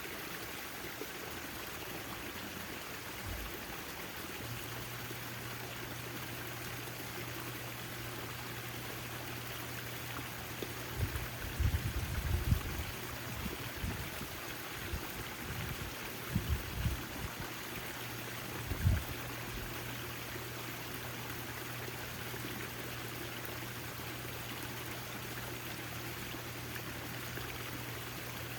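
Backyard fountain's water splashing and trickling steadily. A low steady hum comes in about four seconds in, and a few brief low thuds sound around the middle.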